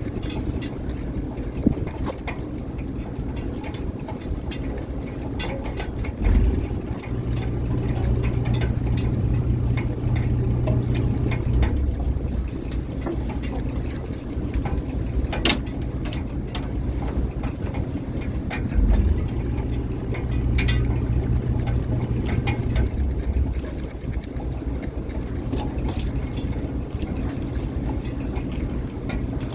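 Fishing boat's engine running steadily with a low hum, growing louder for several seconds about six seconds in and again about two-thirds of the way through, with scattered clicks and knocks on deck.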